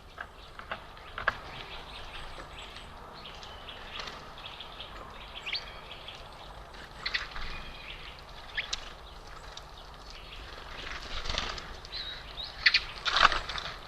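Small birds at a bird feeder, giving scattered short chirps and calls over steady outdoor background noise, with a louder flurry of sound near the end.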